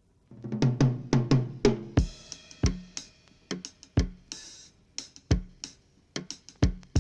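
Drum kit playing the song's intro. It opens with a quick run of tom hits in the first second or two, then settles into a slow, sparse beat of bass drum, snare and cymbal.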